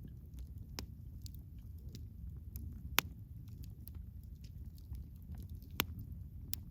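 Wood campfire crackling: scattered sharp pops and snaps, two louder ones about 3 and 6 seconds in, over a low steady rumble.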